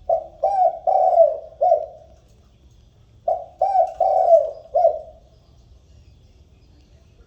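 Spotted dove cooing: two phrases of about five coos each, the second starting a little over three seconds in.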